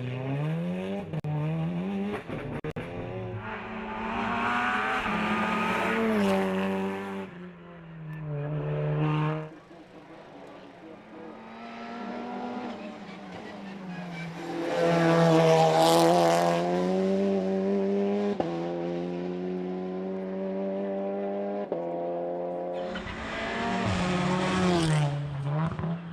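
Race car engine driven hard on a hill climb, revving up and then dropping in pitch at each gear change, several times over, with the loudest run about halfway through.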